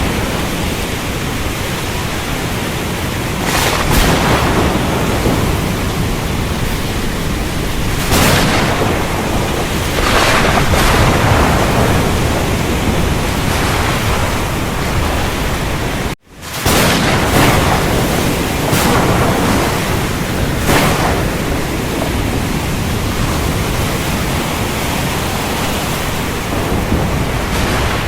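Heavy rainstorm ambience: a dense, steady hiss of rain with louder swells every few seconds. About halfway through the sound cuts out abruptly for a moment and comes straight back, a splice in the recording.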